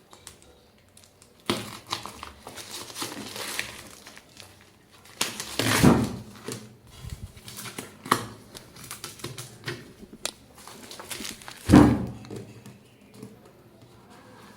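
A string-tied parcel's wrapping being pulled and torn open by hand: irregular rustling, crinkling and tearing, with louder bursts about six and twelve seconds in.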